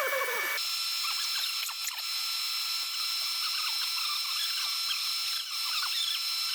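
Boring machine spindle running as a cutter bores out the spark plug well of a cylinder head. A steady high whine carries scattered small scratchy ticks from the cutting, and the whine shifts pitch about half a second in.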